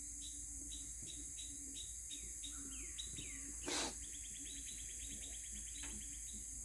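Birds chirping: a regular high chirp about three times a second, a few falling notes around three seconds in, then a rapid trill of high notes. A short burst of hiss-like noise just before the trill is the loudest sound.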